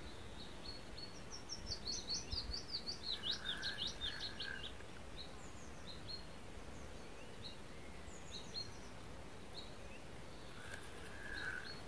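A songbird singing a quick run of short, high, downward-sweeping notes for a few seconds, then a few scattered single chirps, over a steady faint background hiss.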